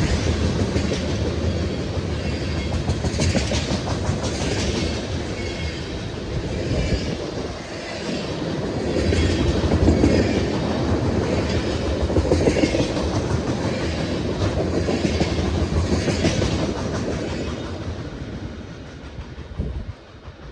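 Train cars rolling past, their wheels clicking over rail joints over a steady rumble. The sound fades over the last few seconds as the train moves away.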